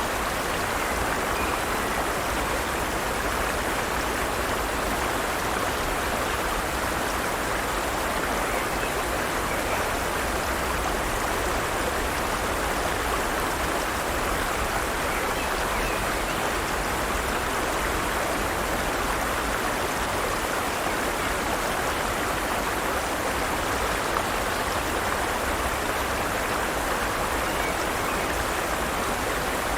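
Forest stream running over rocks, a steady rushing of water.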